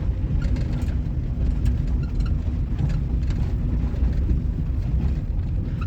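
1998 Suzuki Baleno driving over rough road, with a steady low rumble and scattered faint rattling and creaking knocks. The rattle and creak come from a loose bonnet (hood) hinge that moves as the car drives.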